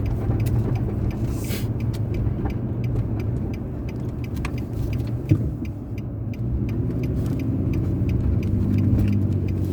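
Car driving along a town road: steady engine and tyre rumble, with a single sharp knock about five seconds in. The engine note grows stronger near the end.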